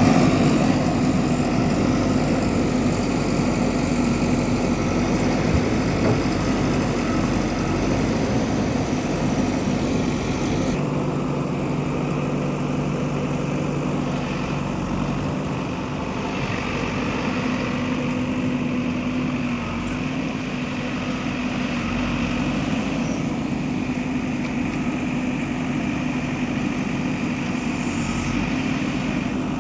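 Diesel engine of a JCB 3DX backhoe loader running steadily with a constant hum. About eleven seconds in, the higher hiss drops away while the engine note carries on.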